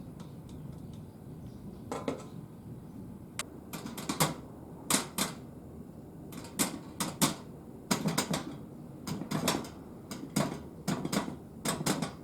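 Light metal parts clinking and clattering in quick clusters of two or three hits, starting about two seconds in and coming every second or so.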